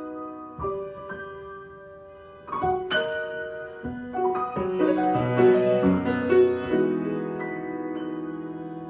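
Solo piano improvisation: scattered single notes and small chords, a busier stretch of notes in the middle, then a low chord held and left ringing near the end.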